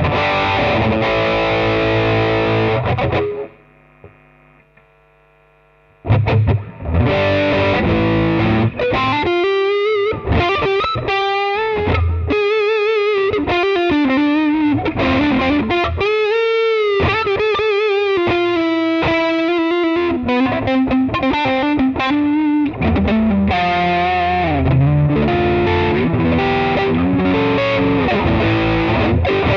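Florenze SG-style electric guitar played through distortion. A ringing chord is cut off about three seconds in, followed by a brief near-silent pause; then a lead line of single notes, some bent and some with wavering vibrato.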